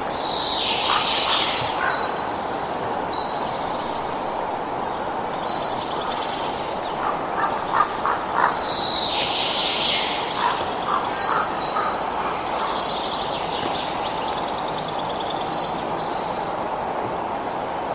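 Birds chirping and calling in short repeated phrases over a steady rushing background noise.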